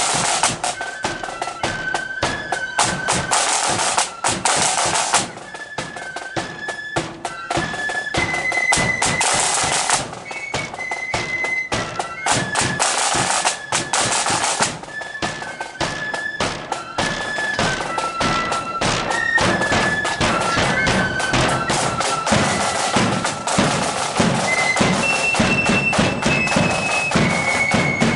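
Marching flute band playing a tune: a shrill melody of held, stepping flute notes over a steady beat of drums.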